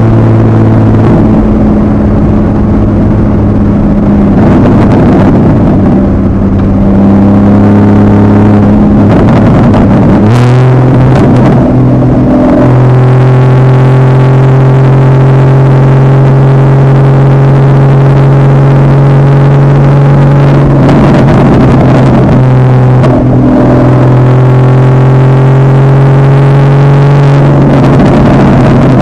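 2015 Porsche 981 Boxster's 2.7-litre flat-six with a Fabspeed Maxflo aftermarket exhaust, running at a steady cruise. The engine note steps up in pitch about ten seconds in, then holds steady.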